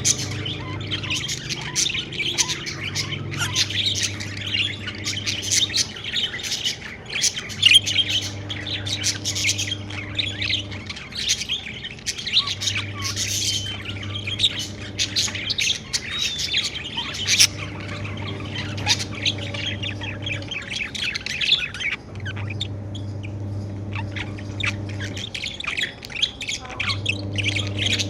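A group of pet budgerigars chirping busily and without pause, with quick overlapping calls. Underneath is a faint low hum that cuts in and out every two to three seconds.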